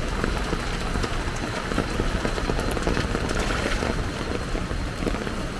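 Heavy rain and fast-flowing floodwater: a steady rushing wash with a deep rumble underneath and many small patters and splashes.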